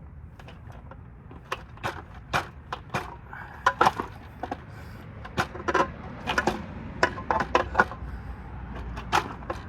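Irregular sharp metal knocks and clanks as tools strike and work loose parts of an MRI power supply's metal chassis, starting about a second and a half in.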